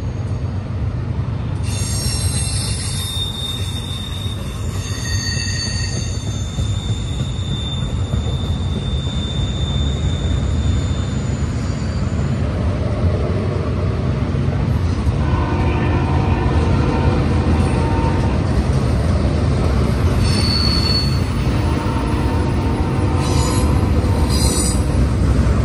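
BNSF freight train's well cars rolling past, a steady low rumble of steel wheels on rail. High-pitched wheel squeals come and go over it, and a lower whining of several tones joins in during the second half.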